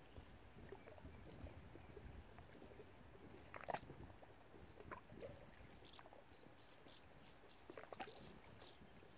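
Faint lakeside ambience at the water's edge: a low steady water wash with a few small sharp clicks, the loudest about four seconds in, and faint high cheeps in the second half.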